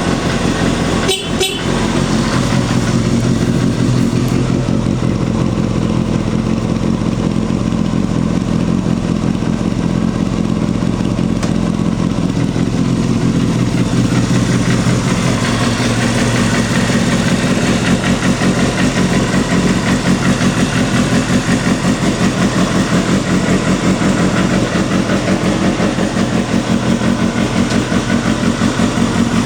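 Suzuki GSX250FX's 250 cc inline-four engine idling steadily through an aftermarket exhaust, with an even pulsing beat. There is a brief break in the sound about a second in.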